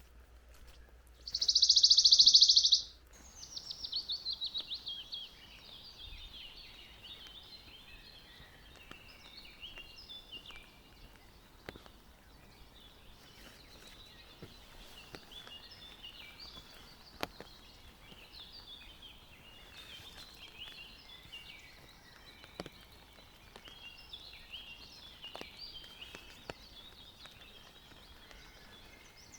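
Forest birds chirping and calling continuously. About a second in, a very loud, high buzzing trill lasts about a second and a half, followed by a rapid run of notes falling in pitch. A few sharp clicks are scattered through.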